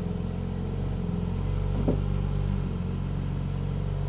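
BMW G80 M3 Competition's twin-turbo inline-six idling steadily at low load as the car creeps backwards onto ramps, with a single light click about two seconds in.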